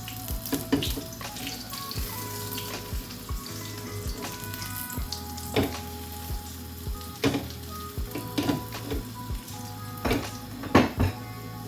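Egg frying in hot oil in a frying pan, sizzling steadily, with frequent sharp clicks and pops.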